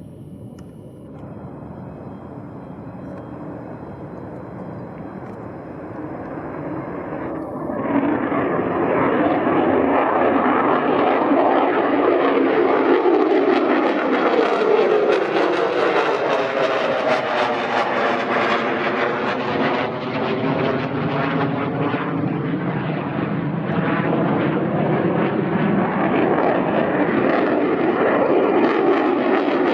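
Fighter jet engine roar growing louder over the first several seconds as the jet approaches. It passes about halfway through with a sweeping, phasing whoosh and stays loud after.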